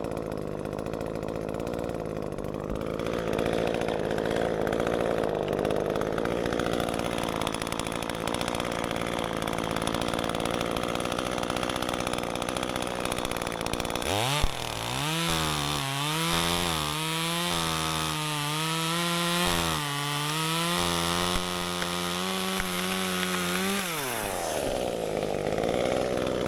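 Echo 355T two-stroke top-handle chainsaw idling, then about 14 seconds in revving up hard and cutting for about ten seconds, its pitch wavering under load, before dropping back to idle near the end.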